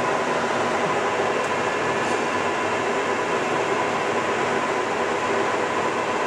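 Monarch 18" x 54" engine lathe running at its top spindle speed of 1,000 RPM: a loud, steady whir of the headstock gearing and spindle with a few steady whining tones, holding an even speed.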